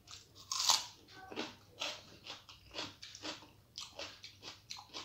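A person chewing a mouthful of rice and curry, close to the microphone, with a loud crunch about half a second in, then steady chewing at about two strokes a second.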